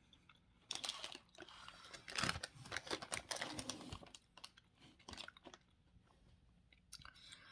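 A person chewing a jelly bean close to the microphone: irregular wet, clicky chewing starting about a second in, tapering off near the end.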